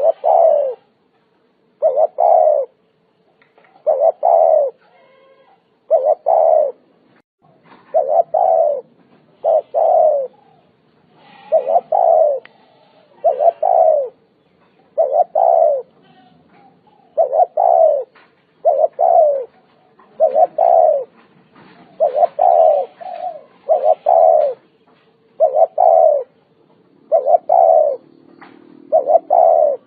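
Spotted dove cooing over and over, loud and close, one coo phrase about every second and a half to two seconds, each dropping a little in pitch.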